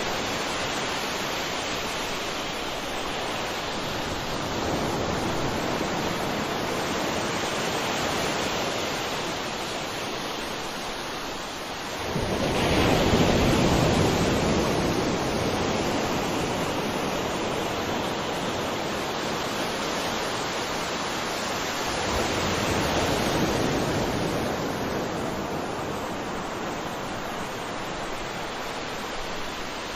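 Sea waves breaking and washing on a shore in a continuous rush, with the loudest wave surging in about twelve seconds in and smaller swells before and after.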